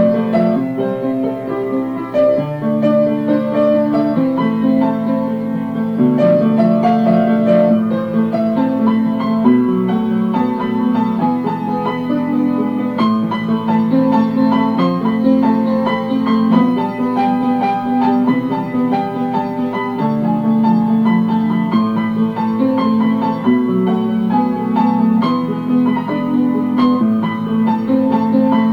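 Piano playing an instrumental passage of steady chords and melody.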